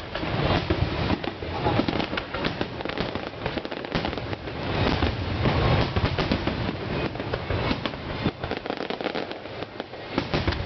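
Fireworks display going off in a dense run of booms and crackling bursts, with a continuous low rumble beneath.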